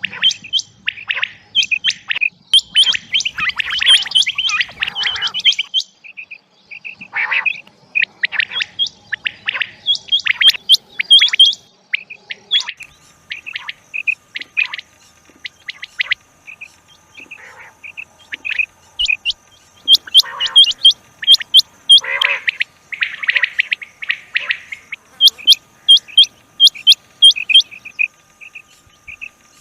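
Rain quail calling: loud, sharp, high double notes repeated in fast runs with short pauses between them.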